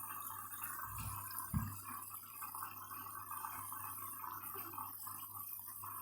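Candy washing machine on the first rinse of a full bedding load: faint water sounds in the drum over a steady low hum, with two soft thumps about a second and a second and a half in.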